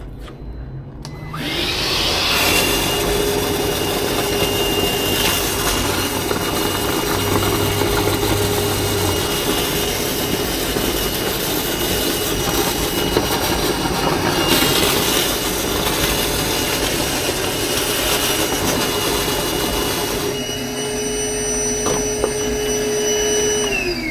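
An electric motor-driven machine running steadily with a rushing, airflow-like noise and a steady whine. It starts about a second in, and its pitch begins to drop at the very end as it winds down.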